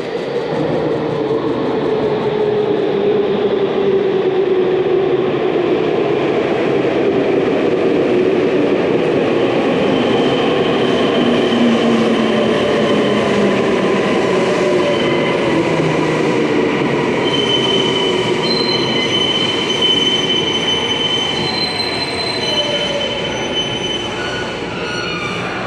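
Tokyu Ikegami Line electric train running along the track: a low hum glides down in pitch over the first several seconds. Thin high wheel squeal comes in during the second half.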